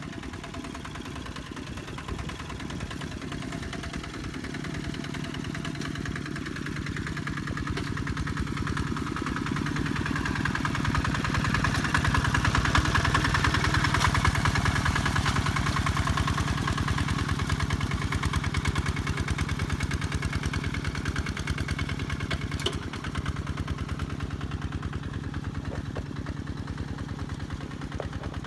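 Kubota tractor engine running steadily as it works a flooded rice paddy, growing louder to a peak about halfway through and then fading as it moves away.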